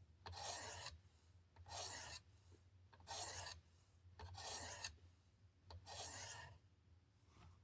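Steel knife blade drawn across an 800-grit sharpening stone on a Worksharp Precision guided sharpener: five even scraping strokes, about one every 1.3 seconds.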